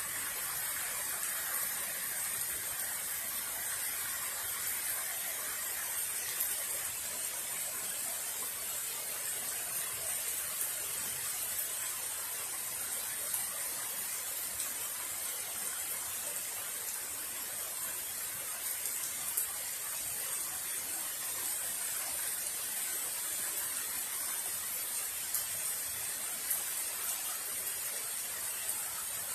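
Steady heavy rain falling in a downpour, an even hiss with scattered sharp taps of drops striking nearby surfaces.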